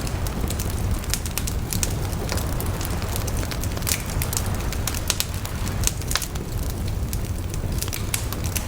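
Wood fire burning, with a steady low rumble and frequent, irregular sharp crackles and pops.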